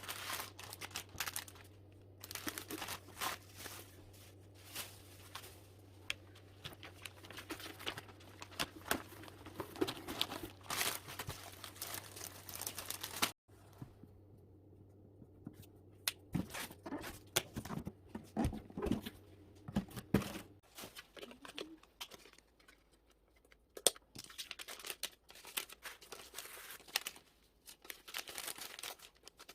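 Packing materials being handled for a parcel: irregular crinkling, rustling and tearing of wrapping, with a low steady hum in the background that stops about two-thirds of the way through.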